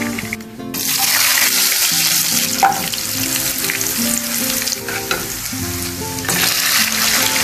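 Hot oil sizzling hard in a pan as a spicy red seasoning is fried and stirred with chopsticks, with one sharp knock about two and a half seconds in. The sizzle surges again about six seconds in as chicken pieces are tipped into the oil. Light background music plays under it.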